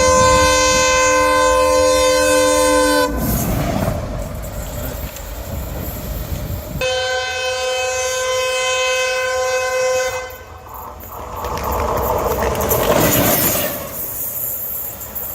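Railway locomotive's horn sounding two long steady blasts of about three seconds each, the second starting about seven seconds in. Between and after the blasts comes the noise of the locomotive running on the track.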